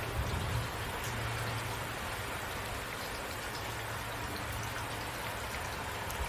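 Steady rain falling, an even hiss of many drops, with a low rumble underneath and a brief soft low thump about half a second in.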